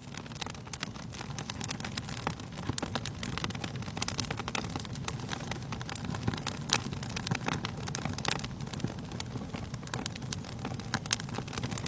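Wood fire crackling in a fireplace: frequent sharp pops and snaps, some louder than others, over a low steady rush of burning.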